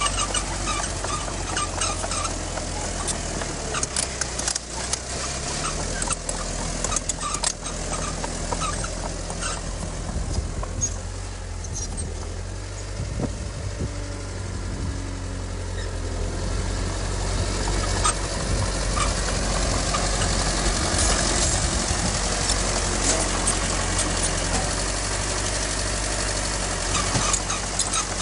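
Heavy diesel earthmoving machinery engines running steadily, their pitch shifting now and then under load, with scattered sharp knocks and clanks.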